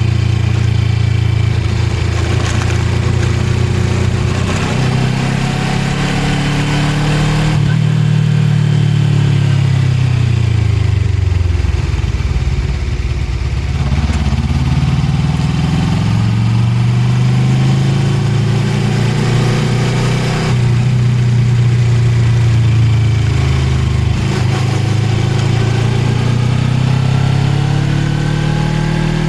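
Suzuki GSX250R's parallel-twin engine heard on board while riding. The engine note falls as the bike slows about a third of the way in, then rises again as it accelerates, with wind and road noise throughout.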